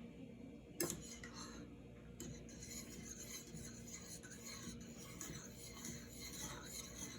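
A utensil scraping and clinking against a bowl while eggs are beaten together, a faint, fast, irregular scraping with small ticks, after a sharp knock about a second in.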